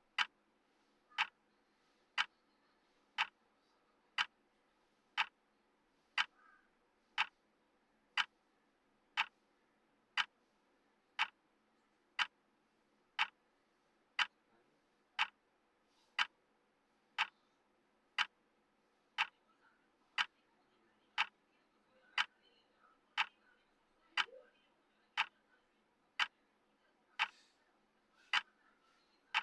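Clock-tick sound of a countdown timer: one sharp tick a second, evenly spaced and steady.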